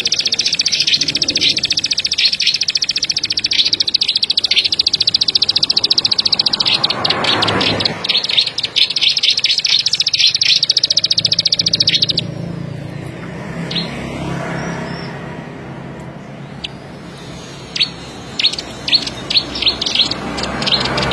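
A ciblek padi, a small field songbird, giving a very fast dry clicking trill that runs without a break for about twelve seconds and then stops. After it comes a series of short sharp single notes, quickening near the end, over a low steady hum.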